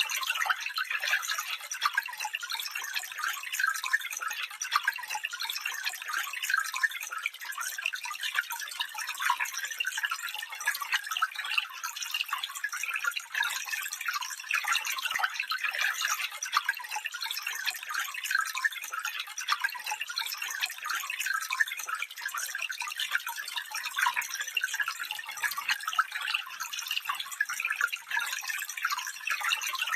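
Small stream babbling and trickling steadily over stones, a continuous fine splashing with no low rumble.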